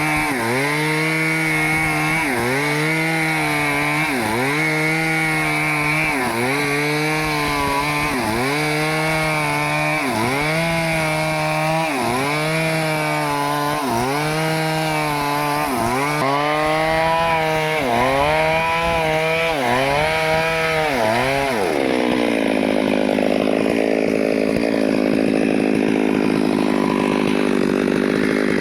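Stihl two-stroke chainsaw cutting into a teak trunk at full throttle. Its engine note dips and recovers about once a second as the saw is worked back and forth in the cut. About 22 seconds in it settles to a steady, lower note, held down under load.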